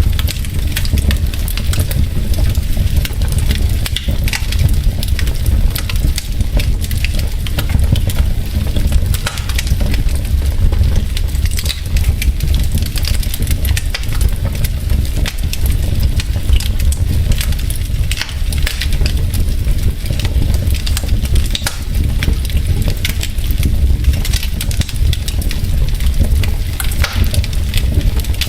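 Wood logs burning in a fireplace, crackling with many small irregular pops over a steady low rumble.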